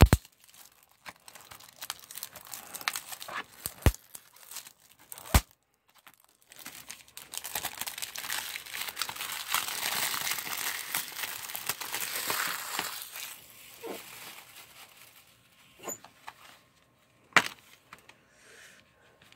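Plastic wrapping on a DVD case being crinkled and torn open, with a long stretch of crackling in the middle and a few sharp clicks of the plastic case being handled.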